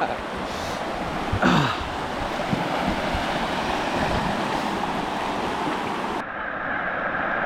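Rushing water pouring over a natural rock waterslide as a person slides down it, with a short vocal call about one and a half seconds in. About six seconds in the sound turns suddenly dull, its high hiss cut away.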